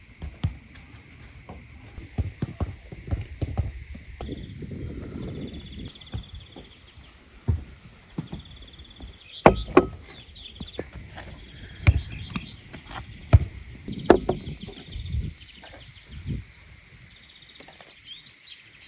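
Irregular knocks, thuds and clattering handling noises, a few sharper ones standing out in the middle, over a steady high chirring in the background.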